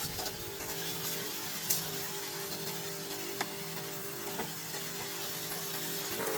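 Car engine running steadily at idle, with a couple of short sharp clicks.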